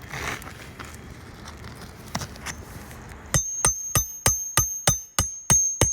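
Hammer driving a roofing nail into an asphalt shingle: about nine quick blows, roughly three a second, each with a bright metallic ring, starting about three seconds in after some low scuffing.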